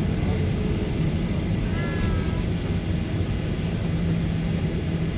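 Steady drone of a Boeing 737-900ER's CFM56 jet engines heard inside the passenger cabin, with a low rumble and a steady hum setting in near the end. About two seconds in, a brief high wavering cry, like a meow, sounds faintly over it.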